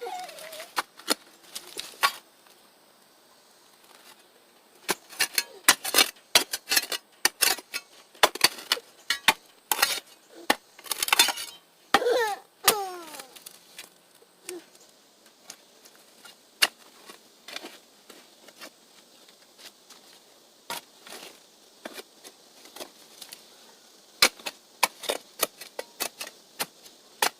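Digging tool chopping and scraping into dry, hard clay soil and striking rock: irregular sharp strikes and scrapes, thickest in the first half and again near the end, sparser in between.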